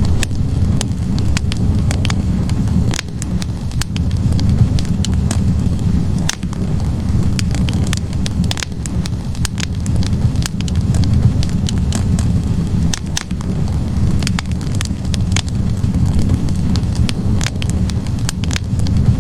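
Wood fire burning in a fireplace: logs crackling with frequent, irregular sharp pops over a steady low rush of flame.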